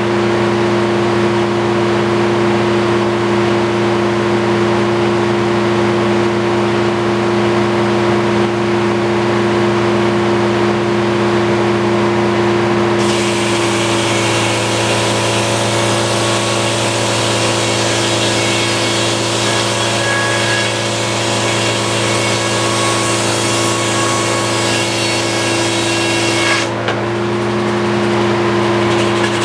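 Antique circular sawmill running steadily with its blade spinning; about 13 seconds in the blade enters a utility pole and cuts with a bright, high-pitched ripping whine for around 13 seconds, which cuts off suddenly as the blade leaves the wood near the end.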